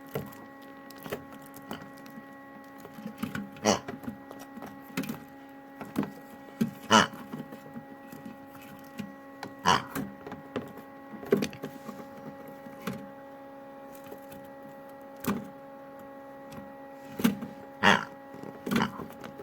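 LG washing machine running with a steady motor hum, broken by irregular sharp knocks and clacks every one to three seconds: the Kinder Surprise eggs tumbling against the drum.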